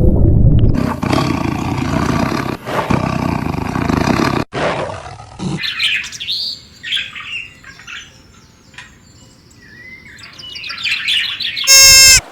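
A sequence of animal calls: a loud, rough roar for about four seconds that cuts off suddenly, then several seconds of bird chirps and sweeping calls, ending in a short, very loud, shrill call.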